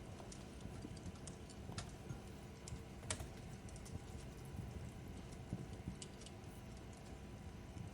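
Wood fire crackling: irregular sharp pops over a low steady rumble, the loudest pop about three seconds in.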